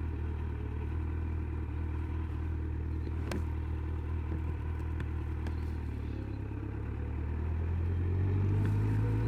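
Honda CBF motorcycle's engine running at a steady cruise while being ridden. It picks up in pitch and grows louder from about seven seconds in, with a single sharp click about three seconds in.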